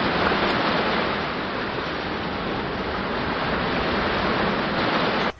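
Steady rush of running water that cuts off suddenly near the end.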